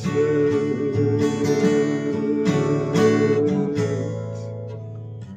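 Acoustic guitar strummed in chords with no vocals, a final chord ringing on and fading out near the end.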